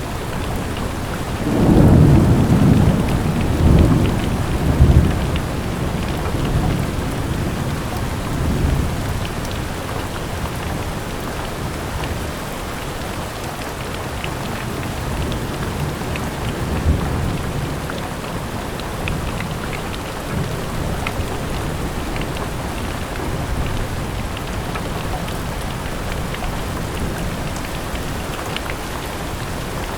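Steady rain falling on a window, with a roll of thunder rumbling in about two seconds in, swelling in a few waves and dying away after several seconds.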